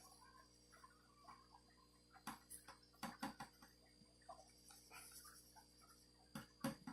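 Near silence with faint, scattered ticks and rustles of hands searching through a worm container's dry bedding.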